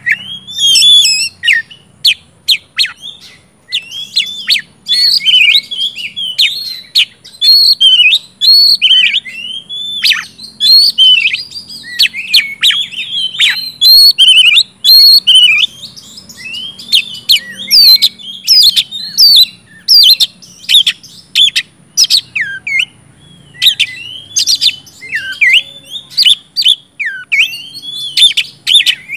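Oriental magpie-robin (kacer) singing continuously in full, loud song: a fast, unbroken stream of varied whistles, sweeping notes and sharp chips with hardly a pause.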